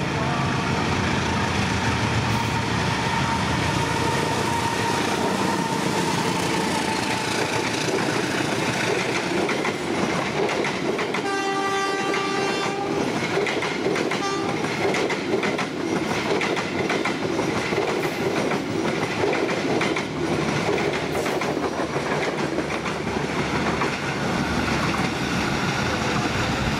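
Diesel-locomotive-hauled passenger train passing close by, with steady engine and wheel noise and the wheels clattering over the rail joints. A train horn sounds for about a second and a half near the middle, followed by a short second toot.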